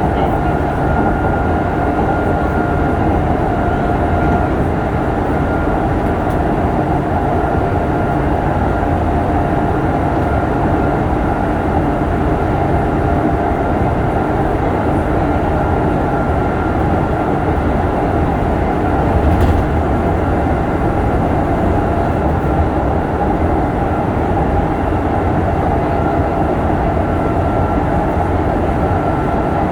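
Kintetsu 8000 series electric train running, heard from inside the car: a steady rumble of wheels and track under a motor whine that holds one pitch. There is a single sharp click about two-thirds of the way through.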